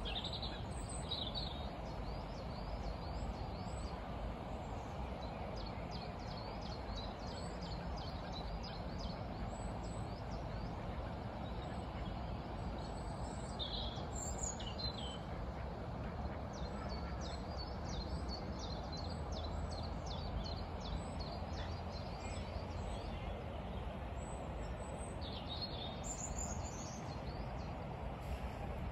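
Birds calling outdoors: many short high chirps throughout, with a few louder calls about a second in, around the middle and near the end, over a steady low background rumble.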